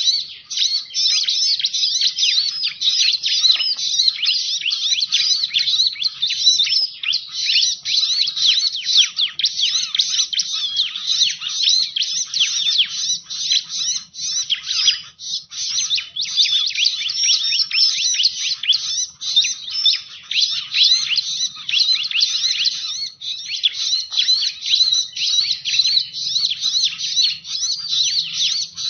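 Bar-winged prinia (ciblek) calling in a bird-lure recording: a continuous, rapid stream of high chirps and trills with hardly a break.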